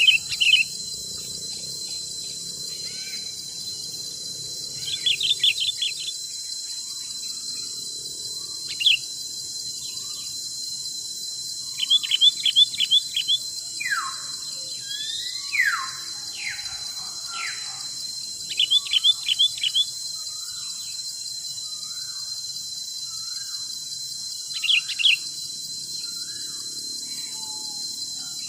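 Forest birds calling: short bursts of rapid, repeated chirping notes every few seconds, with a few falling whistles near the middle. Underneath is a steady, high insect drone of crickets or cicadas.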